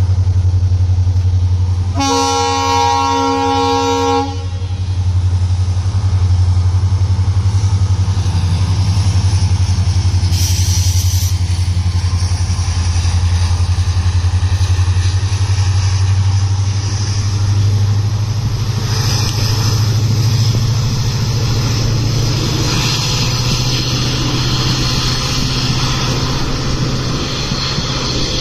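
A diesel-hauled passenger train passing at speed, the locomotive's engine a steady low drone. Its horn sounds for about two seconds near the start. In the second half, wheel and rail noise from the passing coaches grows louder.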